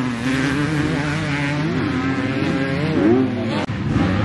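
Several motocross bikes racing round the track, their engines revving up and down as they accelerate and shift. There is a brief drop in the sound about three and a half seconds in.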